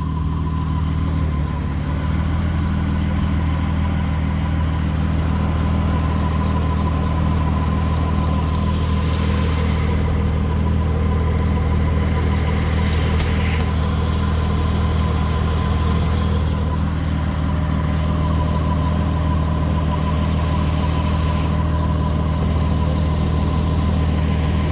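Honda car engine idling steadily, with a thin, steady high-pitched squeak over the engine hum that tracks engine RPM.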